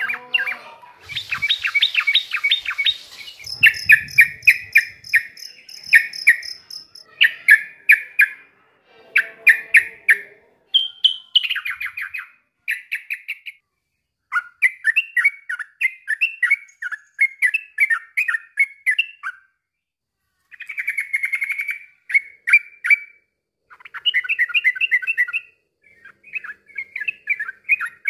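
Yellow-vented bulbul (trucukan) singing: repeated phrases of quick, chattering notes, each lasting a second or two, with short pauses between them.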